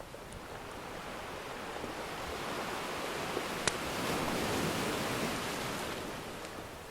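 Ocean surf: one wave swells up and washes back down. A wood fire crackles, with a few sharp pops, the loudest in the middle of the wave.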